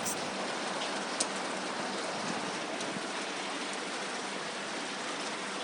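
Steady rain falling on a surface, an even patter with a few separate drop ticks, such as one about a second in.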